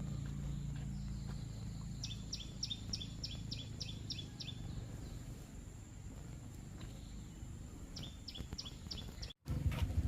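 A bird calling in quick runs of short, evenly spaced notes, about four a second, heard twice. A steady high-pitched insect-like whine and a low rumble run underneath.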